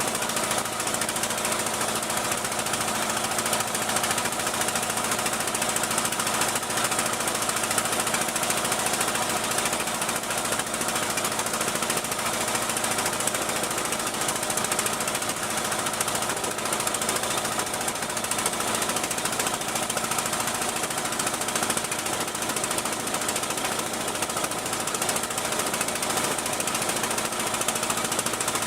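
Boat engine running steadily at a constant pace, a dense mechanical clatter with a steady hum.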